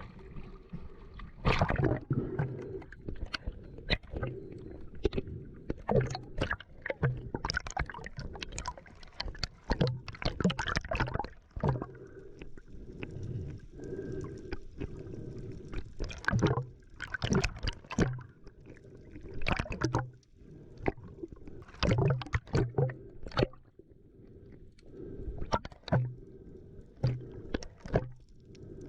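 Sea water splashing and sloshing irregularly close to the microphone, with gurgling, as when swimming or snorkelling with the camera at the surface.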